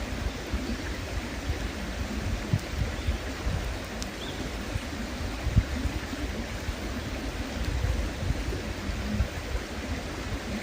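River flowing with a steady rushing sound, alongside a campfire giving off scattered short pops and crackles.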